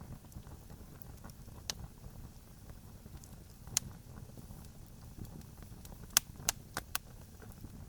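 Campfire crackling: wood burning with scattered sharp pops and snaps over a low steady rumble. A quick cluster of loud pops comes about six to seven seconds in.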